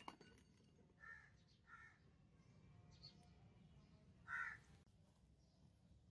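A bird calling three times, each call short and faint over near silence; the third call, a little after four seconds in, is the loudest.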